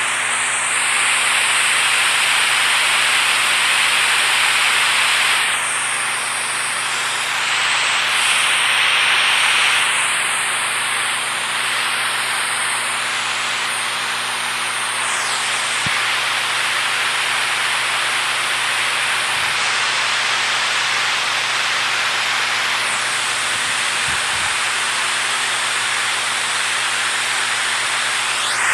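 Rushing water, a steady, dense hiss that shifts slightly in tone a few times.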